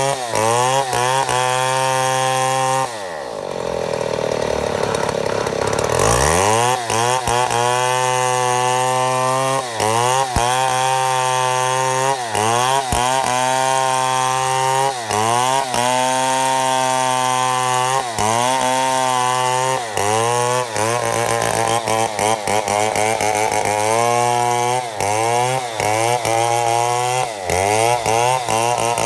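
Chainsaw running at high revs while milling a mahogany log into boards, its engine pitch dipping briefly every second or two. About three seconds in it drops toward idle, then revs back up a few seconds later and carries on cutting.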